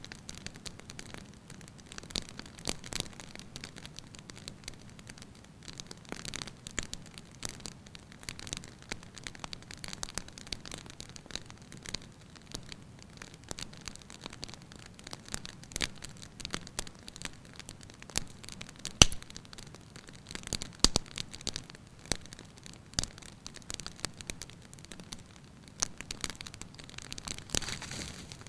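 Wood fire burning in a fireplace: irregular crackles and pops over a soft low rumble, with one sharp pop, the loudest, about two-thirds of the way through.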